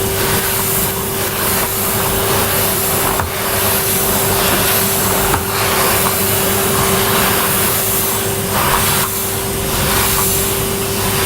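Vacuum cleaner running steadily, a constant whine over the rush of air, the hiss swelling and easing every second or two as it works the floor.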